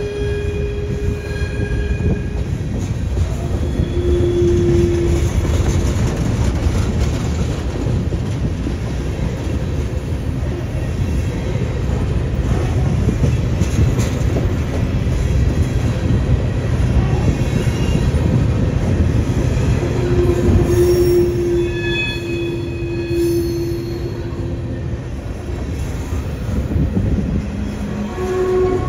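Empty coal train's freight cars rolling past with a steady low rumble of wheels on rail. A held steel-wheel squeal comes and goes several times: briefly near the start, around five seconds in, for a few seconds past the twenty-second mark, and again at the end.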